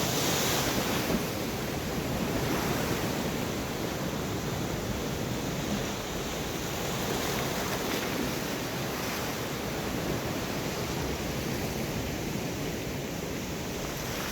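Rough sea surf in a storm, waves breaking and washing ashore with wind: a steady rushing noise.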